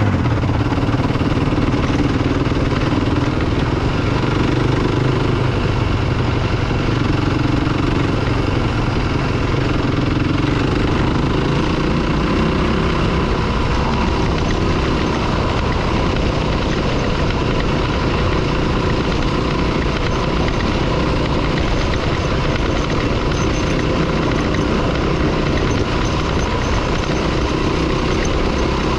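Dirt bike engine running steadily under way, its pitch wavering gently up and down with no sharp revs.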